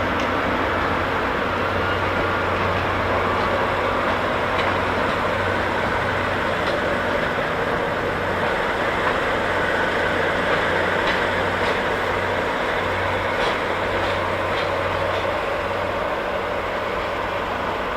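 Steady hum and rushing noise of a train standing at the station platform, with a low drone underneath and a few faint ticks.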